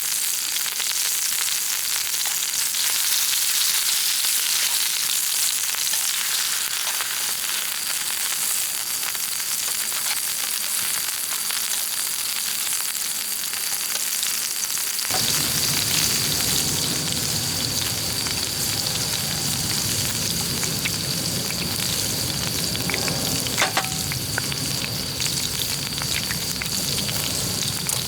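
Food sizzling as it fries over a campfire, a steady crackling hiss. About halfway through, the sound changes abruptly and a lower, fuller layer is added.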